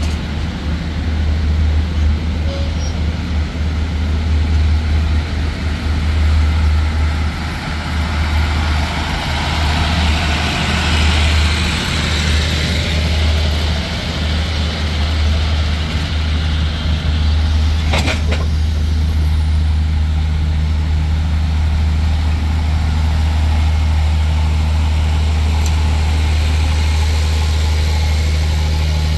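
Diesel passenger train rolling slowly past, its engine giving a steady low hum with a second low tone joining about halfway through. A single sharp clank sounds partway through.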